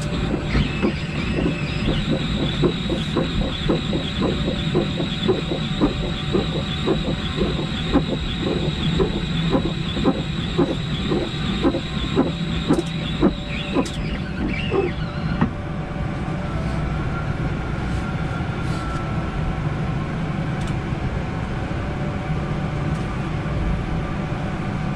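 Boeing 787 flight-deck windscreen wipers beating back and forth in a regular rhythm through water-cannon spray hitting the windscreen, with a steady hiss of water. The wiper strokes and the spray stop a little past halfway, leaving the steady hum of the taxiing jet.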